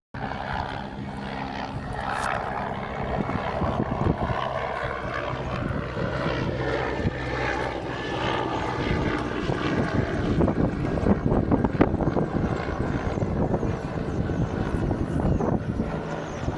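Helicopter flying close by: a steady engine hum with rapid rotor chopping that grows louder in the second half.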